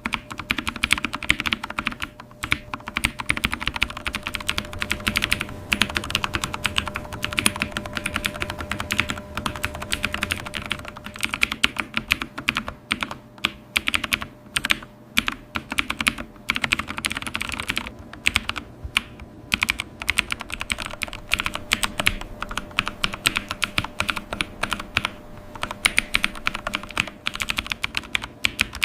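Computer keyboard being typed on: a quick, continuous run of key clicks with a few brief pauses.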